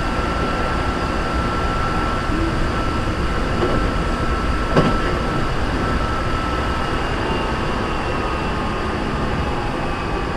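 Hankyu 3300 series electric commuter train running, heard from inside the car: a steady rumble of wheels on rail with a sustained high tone over it. A single sharp knock comes about five seconds in.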